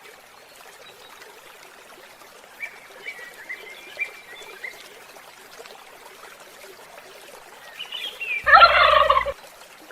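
A turkey gobbling once, a loud rattling call of a little under a second near the end, after a few faint chirps earlier on.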